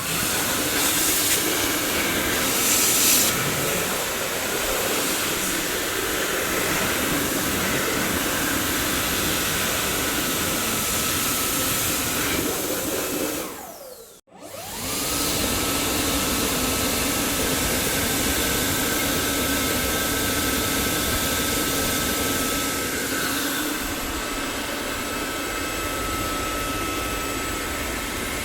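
Dyson vacuum cleaner running with a steady rushing noise and a high whine. About halfway through the motor winds down almost to silence, then spins straight back up and runs on.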